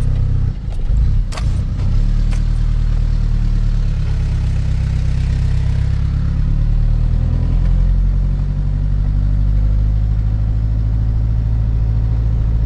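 Truck engine running steadily with a low drone, heard from inside the cab as it drives along, with two brief clicks between one and two and a half seconds in.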